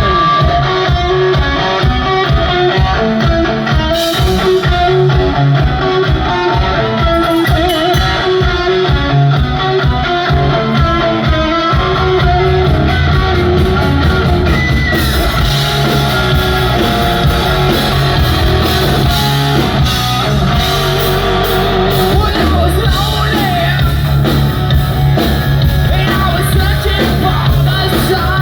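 Hard rock band playing live: electric guitar and drums with singing. A driving pulse of about three beats a second carries the first twelve seconds or so, then the full band comes in heavier.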